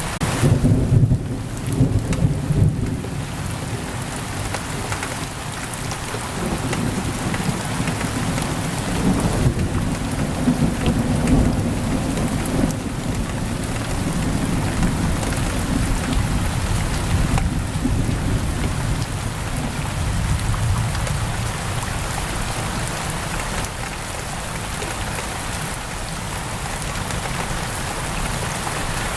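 Steady heavy rain, with a rumble of thunder that comes in about a second in and rolls on for several seconds before fading under the rain.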